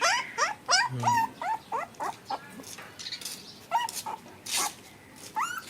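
Puppies yipping and whining in short, sharply rising yelps, many in quick succession over the first two seconds, then a few more spaced out.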